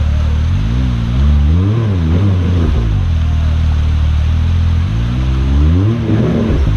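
Side-by-side UTV engine running at idle, revved up and down several times between about one and three seconds in and once more near the end.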